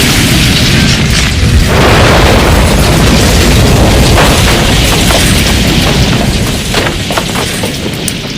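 Long explosion sound effect: a loud, dense rumble with scattered crackles, dying away over the last couple of seconds.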